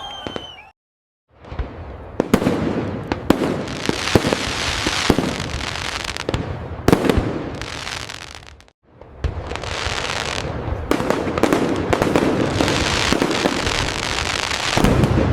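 Fireworks display: dense crackling with many sharp bangs of aerial bursts. It cuts out to silence briefly about a second in and again about nine seconds in.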